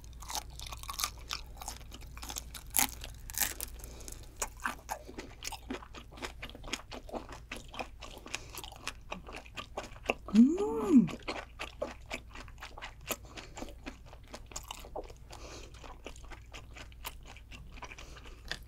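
Close-miked chewing of raw kuruma prawn, a dense run of crisp, wet crunching clicks as the flesh and shell are bitten through. About halfway a short hummed "mmm" rises and falls in pitch, the loudest moment.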